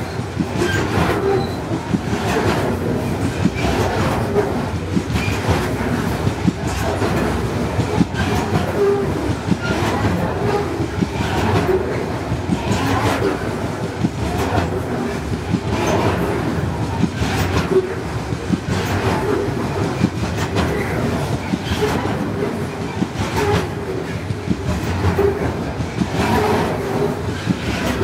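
Loaded coal train's steel hopper wagons rolling past close by: a steady heavy rumble with wheel clacks repeating about once a second as the wheelsets cross the track joints.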